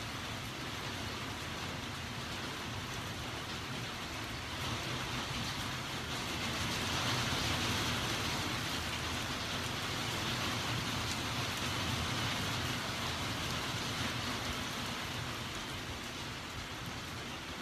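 Steady rain falling during a thunderstorm. It grows heavier about five seconds in and eases off again near the end.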